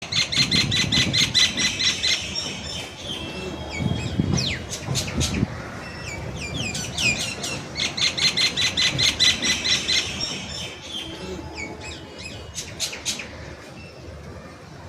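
Common myna calling: two bouts of rapid, repeated chattering notes, one at the start and one about eight seconds in, with sliding whistled notes between them. The calling fades toward the end.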